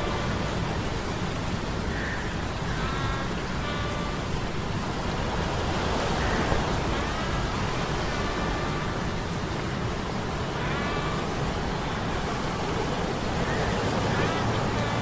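Ambient mix of a steady low humming from metal gears under the rushing noise of a stormy sea and surf. Short high tones come and go every few seconds over the steady rush.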